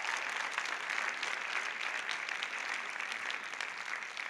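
Audience applauding with dense, steady clapping that begins to die down near the end.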